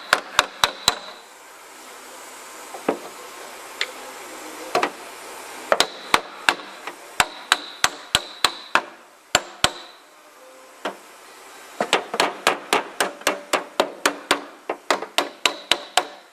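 Hammer pounding out a rusted steel rocker panel on a 2005 Ford Escape: sharp metal strikes with a ringing tone, in bursts of several quick blows, the longest and fastest run, about four blows a second, in the last few seconds.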